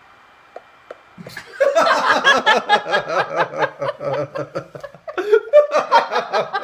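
People laughing hard, starting about a second in, in quick loud bursts that break off briefly and pick up again near the end.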